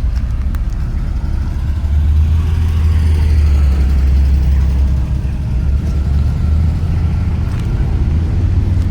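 A car engine running with a low, steady rumble that grows louder about two seconds in and eases off again after a few seconds.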